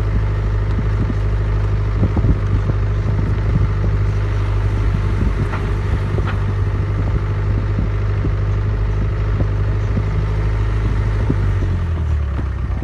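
A vehicle engine running steadily, with light clatter over it; its low note drops about a second before the end.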